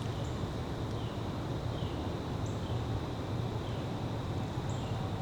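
Carolina wren giving faint, scattered puttering call notes over a steady low rumble of background noise.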